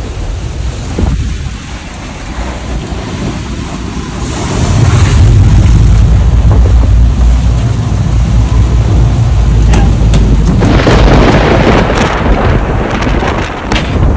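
Strong storm wind buffeting a phone microphone, a heavy rumble that rises sharply about four and a half seconds in and stays loud. Rain hiss grows stronger near the end.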